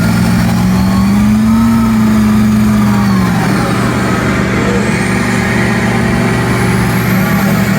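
Engine of an off-road vehicle running hard. Its pitch rises and falls once in the first few seconds, then holds steady.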